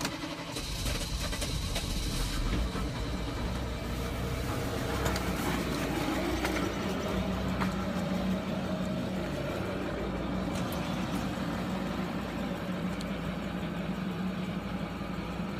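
Volkswagen Touareg V10 TDI pumpe-düse diesel engine cold-starting at about 3°F on weak steel glow plugs: it catches about half a second in, runs with extra noise for the first couple of seconds, then settles into a steady cold idle.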